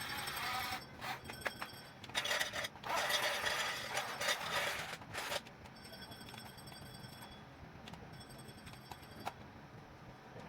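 Small electric motors and gears of a Huina 1550 toy RC excavator whirring and clicking. Irregular noisy bursts come in the first half, then a quieter, steady high whine with scattered ticks.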